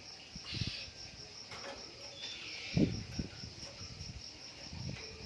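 Insects chirping in a steady high pulse, about four times a second, with a few low knocks, the loudest about halfway through.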